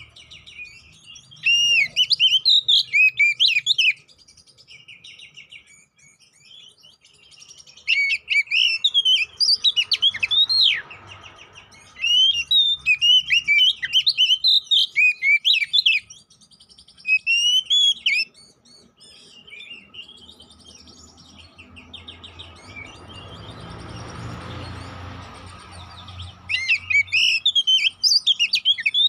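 Oriental magpie-robin (kacer) singing loud bursts of rapid, varied chattering and whistled phrases, a few seconds at a time with pauses between. This is the aggressive, fighting-style song used as a bait call to provoke a male into singing. In one pause near the end, a soft rushing noise swells and fades.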